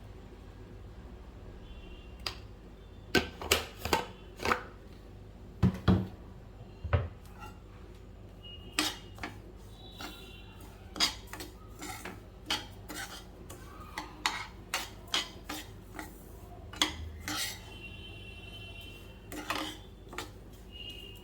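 Kitchen dishes and utensils clattering: an irregular run of knocks and clinks as they are handled and set down, some leaving a brief metallic ring.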